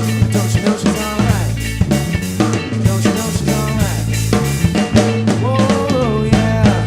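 Blues-rock band playing an instrumental passage near the song's end: busy drum kit with snare and rimshot hits, a steady bass line, and a guitar bending notes in the last couple of seconds.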